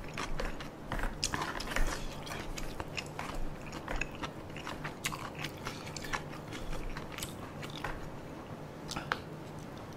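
Chewing of chewy tteokbokki rice cakes and boneless chicken feet in thick spicy sauce, with scattered sharp clicks of wooden chopsticks against the container.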